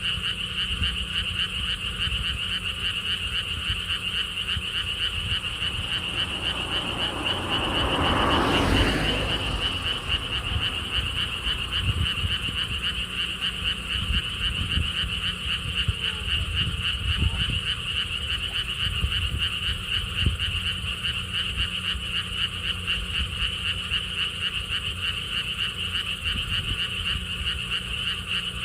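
A dense chorus of frogs calling, a steady mass of fast, rapidly repeated croaks over a low rumble. About seven to ten seconds in, a broad swell of noise rises and fades over the chorus.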